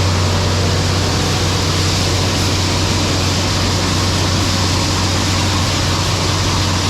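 Tractor engine running steadily at a constant speed, a low even hum under a steady rushing noise.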